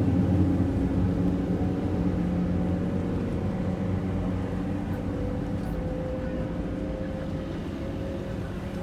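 An engine running with a steady low hum that slowly fades as it moves away.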